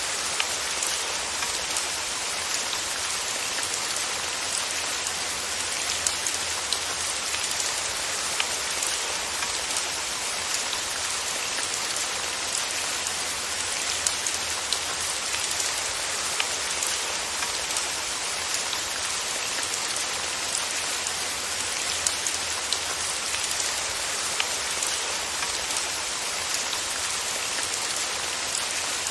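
Steady rain falling on a surface, an even hiss with the sharp ticks of single drops scattered through it.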